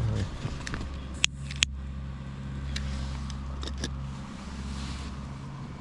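An engine running steadily at idle, a low even hum, with two sharp clicks a little over a second in and a few lighter ticks later.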